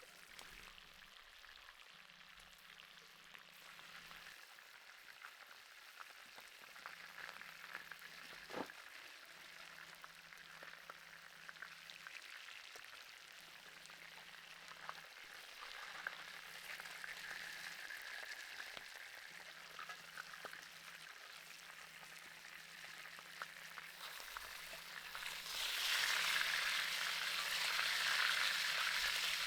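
Beef steak sizzling over hot charcoal, a steady crackling hiss with scattered pops. The sizzle grows much louder near the end.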